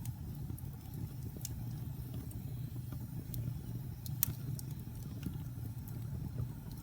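Wood fire burning in a fireplace: a steady low rumble with scattered sharp crackles and pops, the loudest pop about four seconds in.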